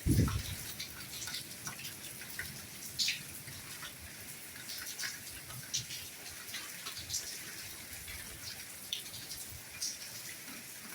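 Soft rain falling steadily, with individual drops pattering and dripping at irregular moments over a steady hiss. A brief low thud comes right at the start.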